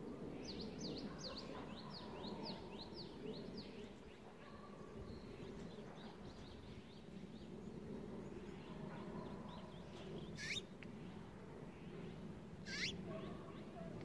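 Small songbirds calling: a fast run of short descending notes, about three a second, then a fainter run, and two louder sharp notes later on, over a low steady outdoor background.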